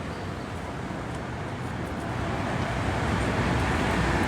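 Road traffic noise: a motor vehicle approaching, growing steadily louder, with a low engine hum coming up near the end.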